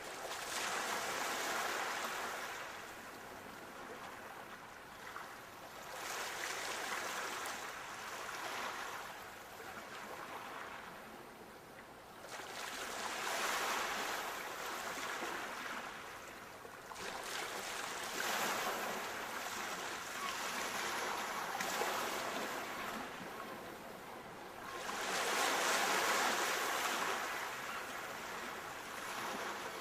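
Sea waves breaking and washing onto the shore, each wash swelling and fading over a few seconds, with the biggest one a little before the end.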